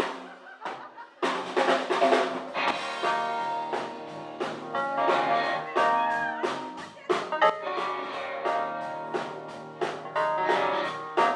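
Live soul band playing an instrumental passage, with drum kit, guitar and held chords. After a hit at the start, the full band comes in about a second in, with a steady drum beat.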